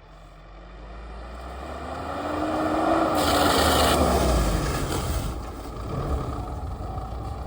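A motor vehicle approaching and passing by. Its engine and road noise grow louder over the first few seconds, peak around the middle with the engine tone rising and then dropping, and then ease off.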